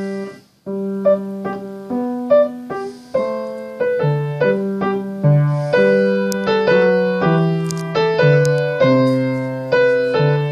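Piano played with both hands together: a melody over lower bass notes in a steady rhythm, with a brief break about half a second in.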